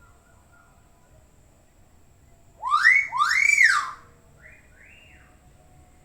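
Hill myna whistling: two loud swooping notes that rise and fall, about two and a half seconds in, followed by two softer, higher whistles.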